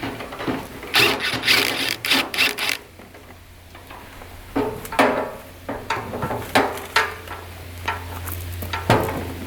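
Scraping and rubbing of metal for about two seconds, then a few separate knocks and clanks of tools against tractor parts, over a faint steady low hum.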